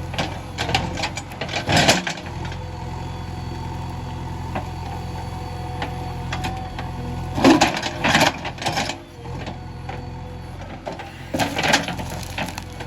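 JCB 3DX backhoe loader's diesel engine running steadily with a steady whine over it, with louder bursts of clatter about a second in, around seven to nine seconds in, and again near the end.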